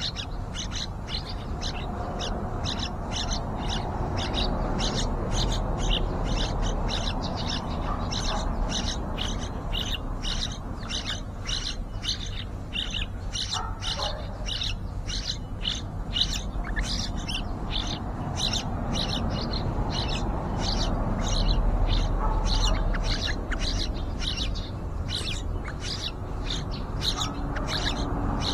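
Yellow-vented bulbul nestlings begging with rapid, high chirps, about four a second, kept up without a break over a low steady rumble.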